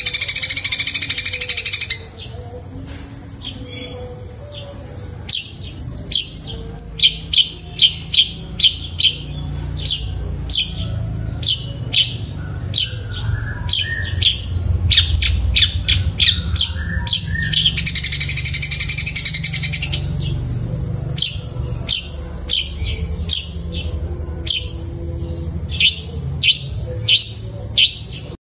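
Long-tailed shrike (cendet) singing in imitation of fighting tree sparrows. Two spells of dense, harsh chattering, one at the start and one about two-thirds through, are separated by runs of sharp, short chirps at two or three a second.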